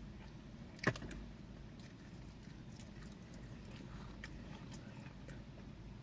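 Quiet chewing and mouth sounds of people eating Philly cheesesteak sandwiches, with scattered small clicks and one sharp click about a second in.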